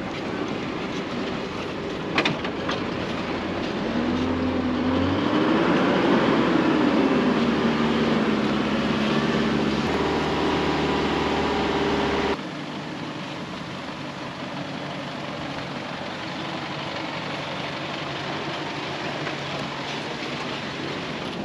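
A four-wheel drive driving along a dirt track, tyres and engine running steadily. From about 4 s in, the engine revs up and back down over several seconds. A little past halfway the sound drops abruptly to a quieter, steady driving noise.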